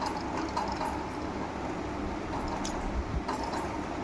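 Steady room hum with a few faint, scattered clicks and taps.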